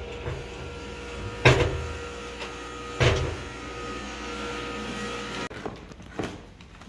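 Two sharp knocks about a second and a half apart over a steady mechanical hum with a held tone; the hum cuts off suddenly about five and a half seconds in.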